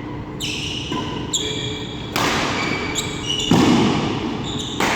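Badminton rally in a sports hall: about seven sharp racket strikes on the shuttlecock, roughly half a second to a second apart. Short high squeaks follow several of the strikes.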